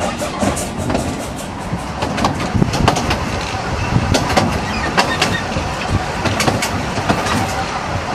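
Narrow-gauge steam train carriage in motion: a steady rumble with irregular clicks and knocks from the wheels and coach, sharper from about two seconds in.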